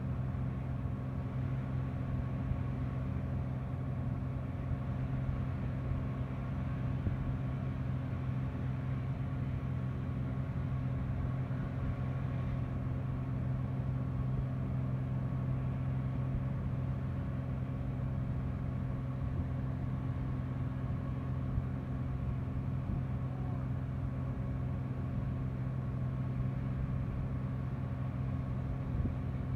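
An engine running steadily at a constant speed, an even mechanical hum that doesn't rise or fall.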